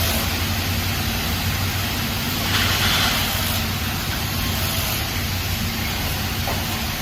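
Steady hum and noise of factory machinery, with a brief hiss about two and a half seconds in.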